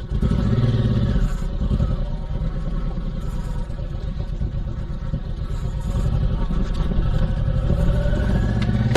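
Honda VTX1800C's V-twin engine running as the motorcycle pulls away and rides on, revs rising shortly after the start and again near the end.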